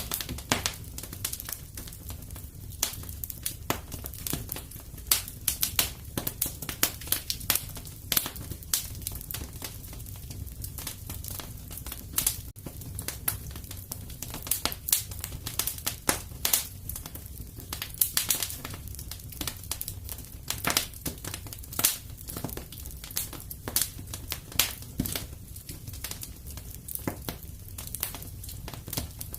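Wood fire crackling in a fireplace: a dense, irregular run of sharp snaps and pops over a low steady rumble of the flames.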